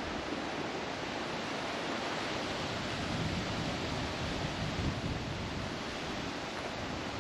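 Steady rushing wind, buffeting the microphone with an uneven low rumble.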